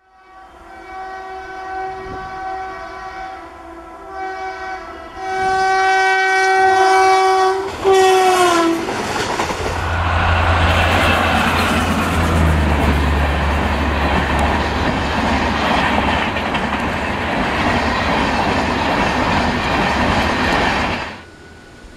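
WAP-1 electric locomotive hauling a passenger express, sounding its horn in a few short blasts and then a long one whose pitch falls as the locomotive passes. Then the coaches rumble and clatter by over the rail joints for about twelve seconds, until the sound cuts off abruptly.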